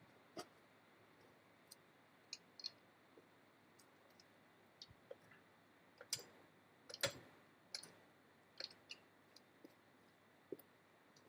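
Near silence broken by faint, irregular clicks and light taps, about a dozen in all, with the loudest about seven seconds in.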